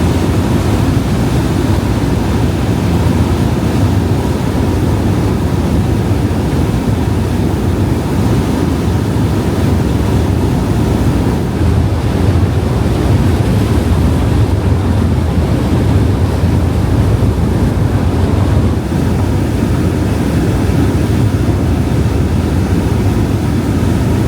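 Incat high-speed car ferry under way: a steady, loud rumble of engines and rushing water, with wind buffeting the microphone.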